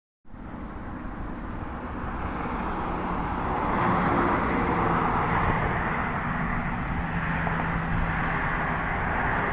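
Jet airliner engine noise, a steady rushing roar that swells over the first few seconds and then holds.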